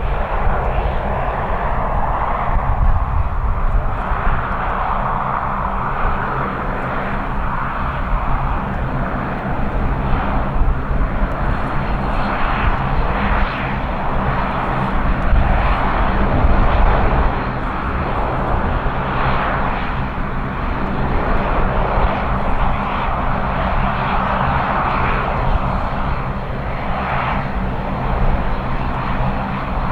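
Bombardier Dash 8-400 turboprop's two Pratt & Whitney PW150A engines and six-blade propellers running, a steady propeller hum with a hissing whine above it. Gusty wind rumbles on the microphone.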